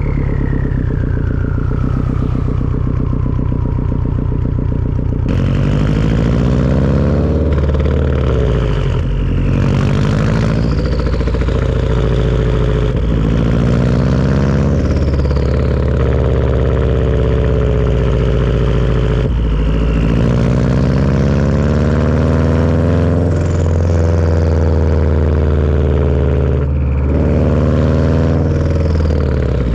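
Turbocharged Subaru flat-four engine running through a Tomei turbo-back exhaust, its revs rising and falling, with the turbo whistling over it. A whistle falls steadily in pitch over the first few seconds as the turbo spools down, and shorter whistles rise and fall again several times as the engine comes back on boost.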